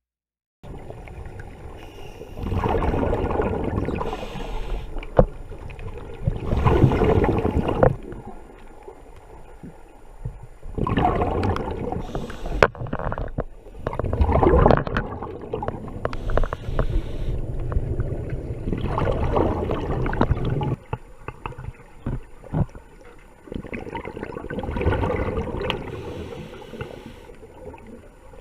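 Underwater sound of a diver's breathing regulator: rushing, gurgling bursts of exhaled bubbles every four to five seconds.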